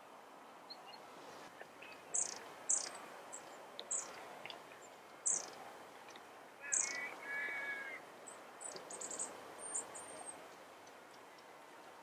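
Small birds calling outdoors: a scattering of short, very high-pitched thin call notes, bunched together near the end, with a brief lower two-part whistle a little past the middle.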